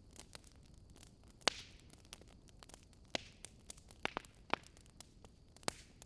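Wood fire crackling: irregular sharp pops and snaps over a faint background. A few louder pops, about a second and a half in, about three seconds in and near the end, each trail off in a brief hiss.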